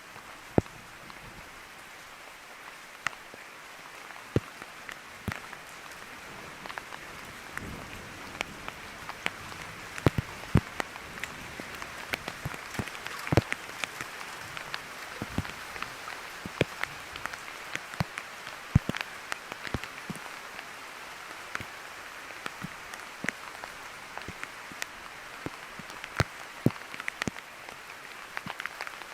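Steady rain hissing, with frequent sharp, irregular taps of drops landing close by.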